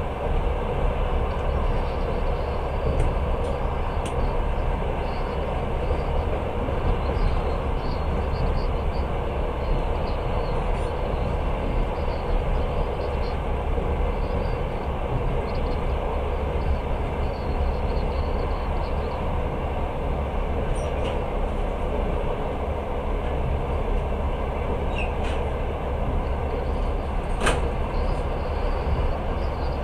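Passenger train running, heard from inside the carriage: a steady rumble and rushing noise, with a couple of faint clicks.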